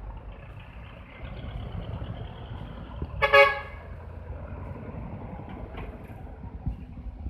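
A decorated truck's horn sounds once, briefly, about three seconds in, over the steady low rumble of truck engines running.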